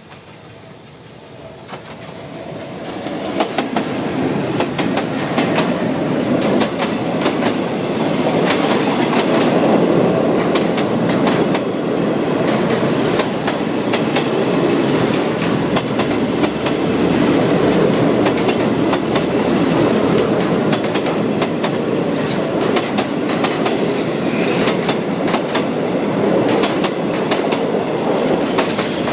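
Train passing close by, its wheels clacking over the rail joints in a rapid run of clicks. It swells over the first few seconds and then runs loud and steady.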